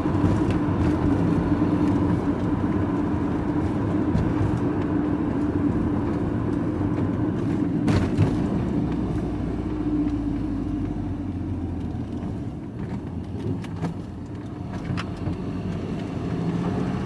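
Engine and road noise of a vehicle being driven, heard from inside the cab: a steady hum that eases off a little about three-quarters of the way through, with a single knock about halfway.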